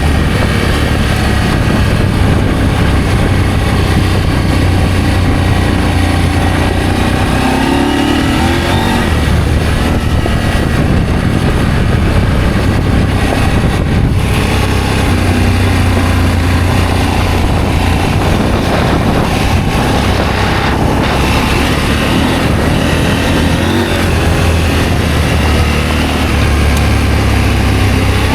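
Adventure motorcycle engine running while riding, its pitch shifting with the throttle a few times, with wind and road noise.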